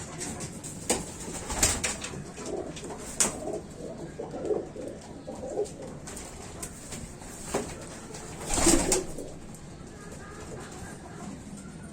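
Domestic pigeons cooing in a loft, with a few short sharp sounds among them, the loudest about nine seconds in.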